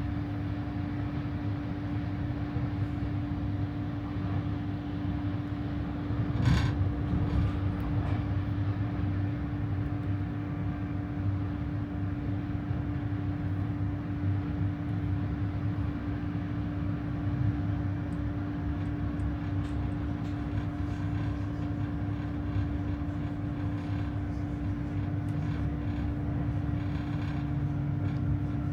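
ÖBB regional electric train running, heard from inside: a steady rolling rumble with a constant electrical hum, and one sharp knock about six seconds in.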